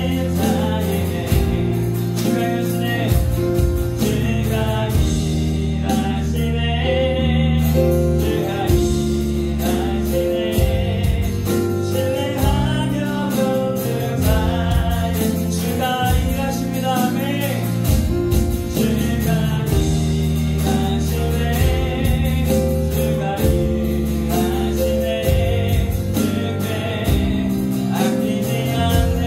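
Live contemporary worship band playing a song with singing over acoustic guitar, keyboard, bass guitar and electronic drums.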